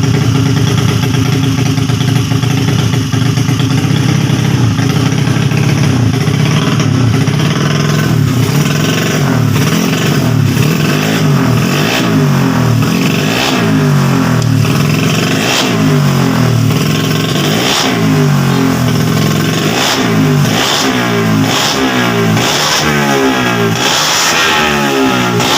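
Race-prepared Honda Beat scooter's 130cc single-cylinder engine idling steadily, then revved in repeated throttle blips that come quicker toward the end.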